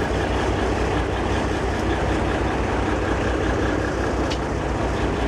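Diesel passenger train running beside the platform: a steady low, pulsing engine hum under a broad rumble.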